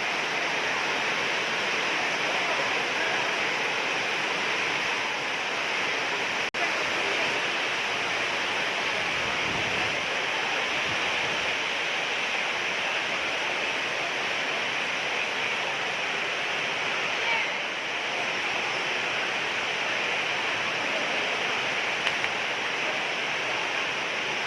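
Heavy rain pouring steadily, a dense even hiss, with a momentary break about six and a half seconds in.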